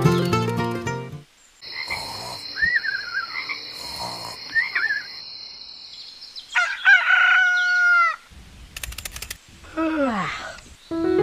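A string of separate animal calls after the music cuts out: short chirps with a high steady tone behind them, a louder call about seven seconds in, and a call sliding steeply down in pitch near the end.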